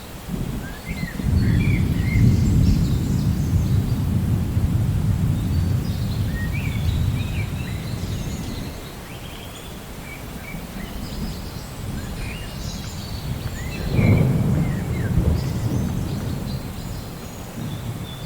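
Thunder rumbling low, building about a second in and rolling for several seconds before fading, with a second, sharper peal about fourteen seconds in. Birds chirp on and off over a steady rain hiss.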